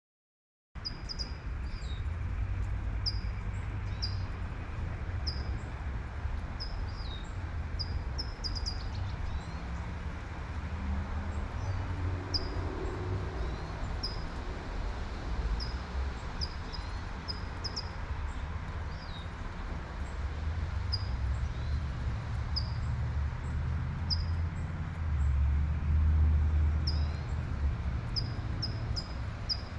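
Light rain falling with a steady hiss, a bird repeating a short high chirp every second or so, and a low traffic rumble that swells near the end as a car passes. The sound cuts in abruptly about a second in.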